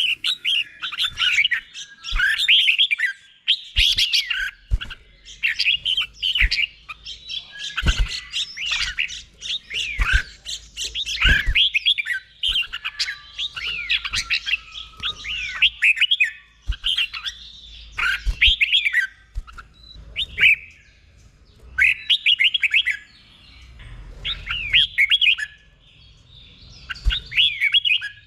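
Red-whiskered bulbul singing quick, warbled phrases of sweeping notes, repeated again and again with short pauses between them, in the doubled-phrase song style. A few sharp clicks sound underneath.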